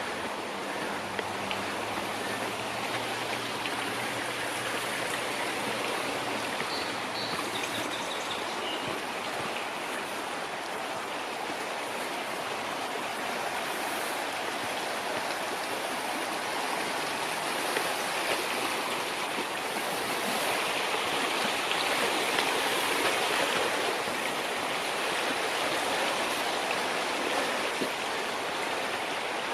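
A stream rushing steadily over rocks, swelling a little about two-thirds of the way through, with a few faint high chirps about seven seconds in.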